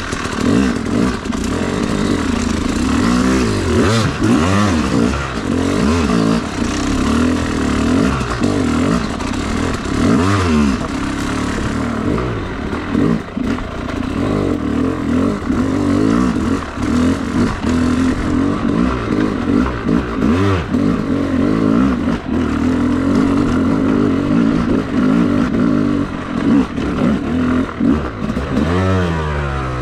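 Yamaha YZ250 two-stroke dirt bike engine being ridden, its pitch rising and falling over and over as the throttle is worked.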